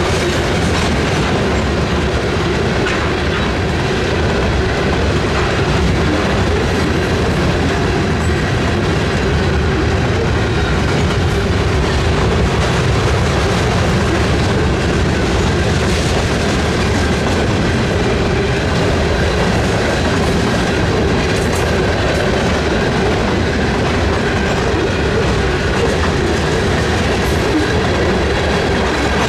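A Canadian National freight train's cars rolling past close by: a steady, loud rumble and clatter of steel wheels on the rails.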